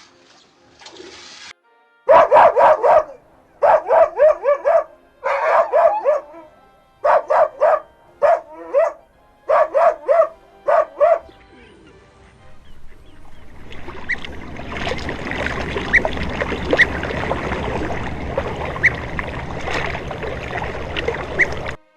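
Dog barking in quick groups of several sharp barks for about nine seconds. After a short lull it gives way to a dense, steady noise with scattered sharp clicks that stops abruptly near the end.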